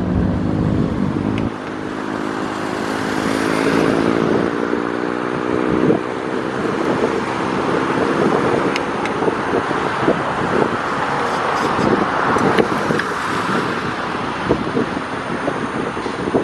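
Light propeller aircraft's engine droning as a steady hum for the first several seconds, then giving way to a rushing noise with irregular thumps.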